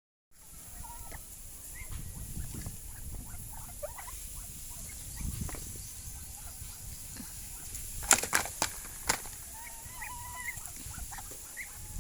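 Farmyard poultry chirping and squeaking here and there over a low rumble, with a few sharp clicks about eight to nine seconds in.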